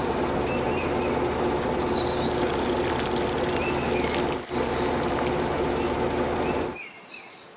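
Birds chirping over a steady mechanical hum, which cuts off abruptly near the end.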